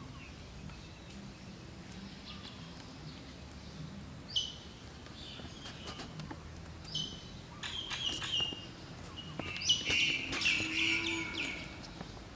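Birds chirping: short high calls that drop in pitch, a few scattered at first, then coming thick and loudest about ten seconds in, over a steady outdoor background hum.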